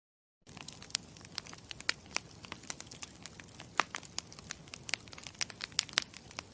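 Campfire crackling: irregular sharp pops and snaps over a low steady rustle, starting abruptly about half a second in.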